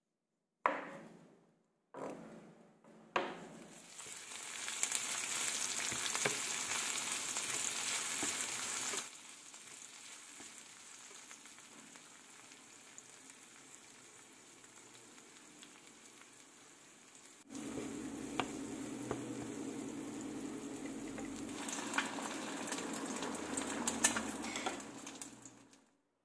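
Food frying in a hot pan, a steady sizzle that grows louder and softer across several short takes. It opens with a few sharp knocks, and a low steady hum joins the sizzle in the second half.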